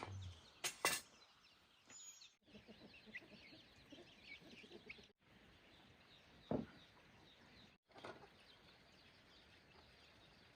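Faint outdoor bird chirps with a few sharp knocks, the loudest just under a second in.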